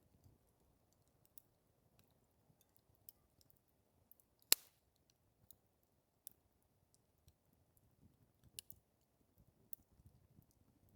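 Campfire crackling: sparse, irregular snaps of burning wood, with one much louder pop about four and a half seconds in.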